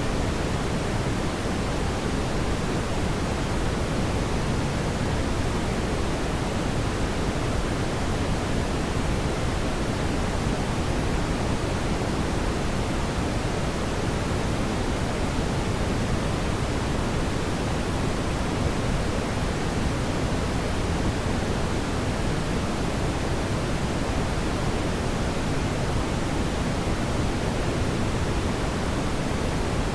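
Fireplace fire giving a steady, even rushing noise, heavy in the low end, with no distinct crackles or pops.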